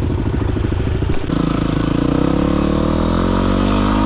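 Dirt bike's single-cylinder engine chugging at low revs. About a second in, the throttle opens and the revs climb steadily for the rest of the time.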